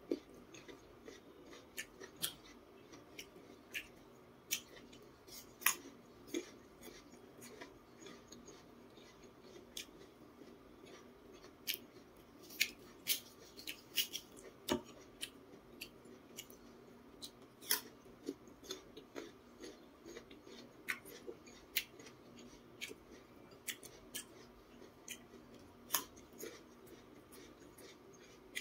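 Chewing raw jicama close to a clip-on microphone: irregular crisp crunches, several a second at times, over a faint steady hum.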